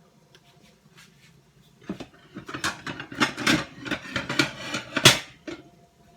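Clattering and rustling of kitchen items being handled, a busy run of knocks and scrapes starting about two seconds in, with the sharpest knock about five seconds in.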